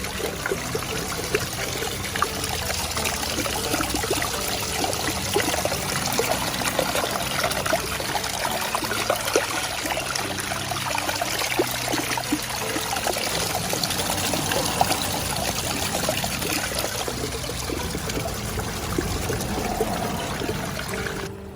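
Water from a homemade pump-fed waterfall pouring steadily and splashing into its basin, the pump recirculating the water.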